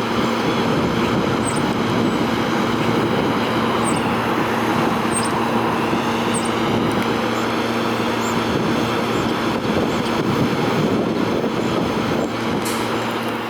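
Sacramento Regional Transit light rail train running by: a loud, steady rolling rush with an electric hum under it. The hum stops shortly before the end.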